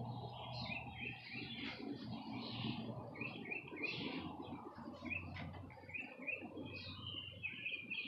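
Several songbirds chirping, many short calls overlapping in quick succession, over a low steady background rumble.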